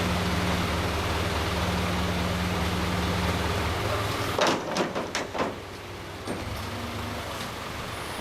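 An engine running steadily, which stops about four seconds in; right after, a quick series of about five knocks.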